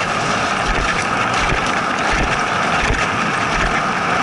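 Steady hiss of a two-dog sled gliding over snow, with dull low thumps every half second or so.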